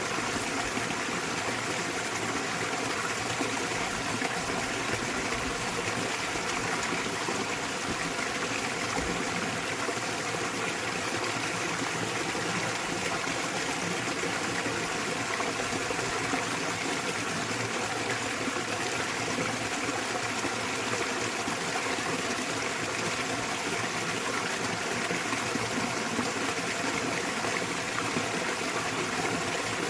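Small waterfall in a mountain stream, water splashing and rushing steadily and evenly.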